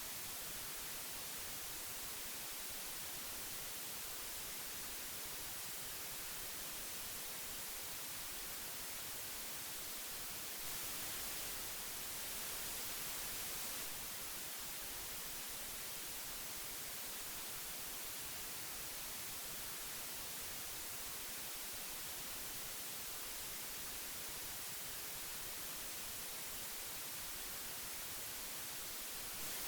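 Steady hiss of old analog tape, an even, airy noise weighted toward the high end, getting slightly louder and brighter for a few seconds about a third of the way in.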